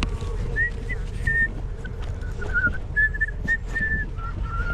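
A person whistling a tune, a string of clear notes stepping up and down in pitch, over a steady low rumble.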